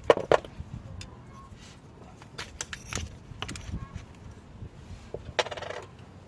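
Metal hand tools and fasteners clinking and clicking in scattered sharp knocks while bolts are undone under the car, with a short rasp about five seconds in.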